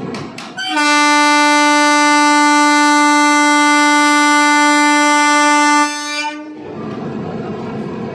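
Train horn sounding one long, loud, steady blast of about five seconds as the train departs, over the rumble of the train running. A few sharp clicks come just before the horn starts.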